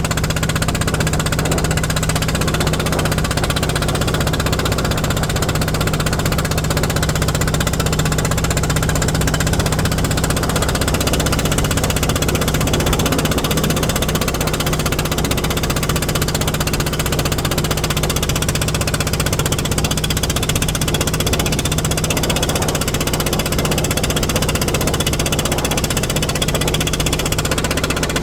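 Fishing boat engine running steadily with a constant low hum and knock.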